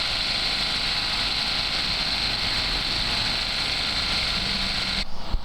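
Steady mechanical running noise, like an engine or machinery idling, with a strong high hiss; it cuts off abruptly about five seconds in, followed by a short knock.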